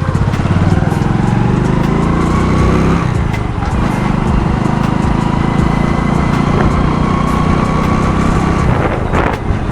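Small commuter motorcycle's single-cylinder engine running while being ridden; the engine note dips about three seconds in, then holds steady. Wind rushes over the microphone near the end.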